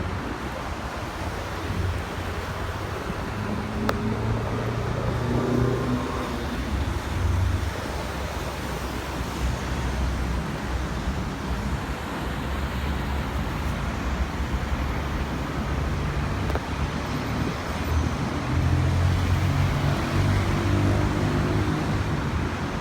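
Steady outdoor engine and traffic noise, with wind on the microphone. A low hum swells and fades twice, as engines pass by.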